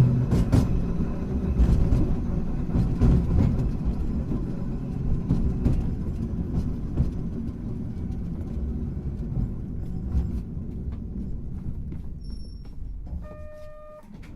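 Hankai Tramway car 351 running along the track, with a low wheel-on-rail rumble and scattered clicks of the wheels over rail joints, getting gradually quieter as it slows. Near the end a short steady electronic chime tone sounds.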